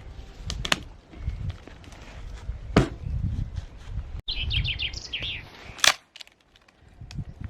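A songbird gives a quick run of about six repeated chirps about halfway through, among low rumbling and several sharp knocks or snaps; the loudest knocks fall near the middle and just after the chirps.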